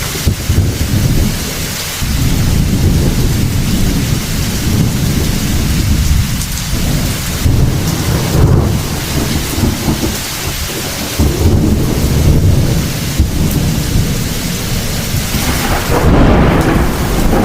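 Heavy thunderstorm: steady rain hissing and pattering while deep thunder rumbles on almost without a break.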